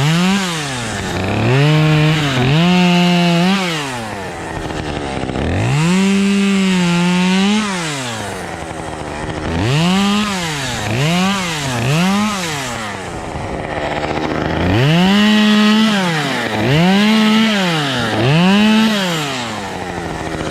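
Two-stroke chainsaw revved up from idle and let back down again and again, about nine times, some peaks held at full throttle for a second or two.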